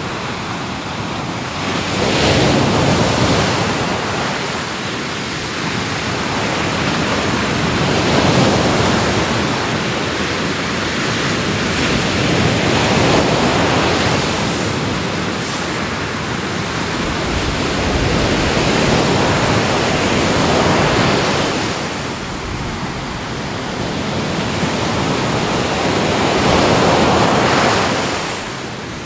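Ocean waves breaking and washing in, a continuous rushing surf that swells and eases about every five to seven seconds.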